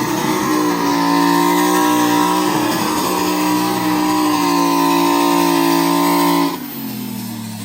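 Turbocharged mega truck engine held at high revs with a steady high drone that wavers briefly about three seconds in. About six and a half seconds in it drops off sharply as the throttle comes off and the revs fall away.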